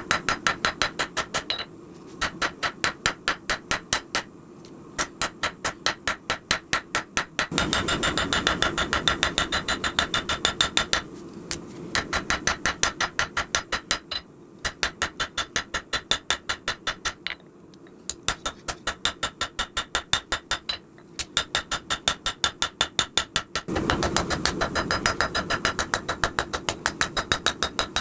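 Hammer forging steel on an anvil: runs of fast, even ringing strikes, about five a second, broken by short pauses. A steady rushing noise swells under the strikes twice, about eight seconds in and near the end.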